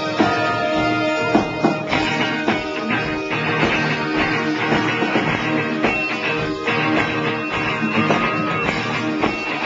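Live rock band playing an instrumental passage: strummed guitar over a steady drum beat, with no singing.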